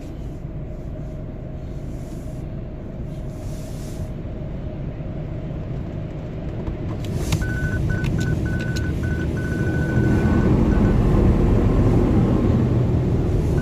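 Steady low rumble of a car waiting in line at an automatic car wash, heard from inside the cabin, growing louder toward the end as a rushing noise builds. A few clicks and then a run of short, high beeps come about seven seconds in.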